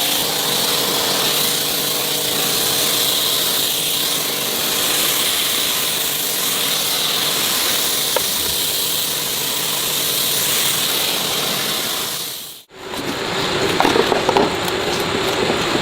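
Steady, hissing workshop power-tool noise. It cuts off abruptly near the end and gives way to a different tool noise with small scattered knocks.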